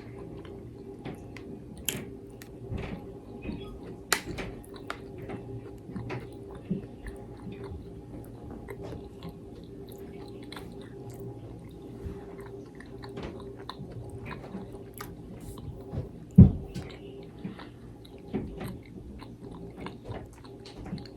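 Close-miked chewing and biting: wet smacks and small clicks of someone eating soft breakfast food. A single loud low thump sounds about 16 seconds in, over a steady low hum.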